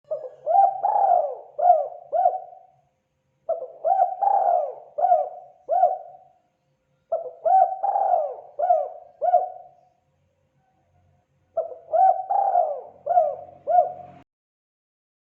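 Spotted dove cooing: four call phrases, each a quick run of about five coos lasting two to three seconds, with short pauses between. The last phrase cuts off abruptly near the end.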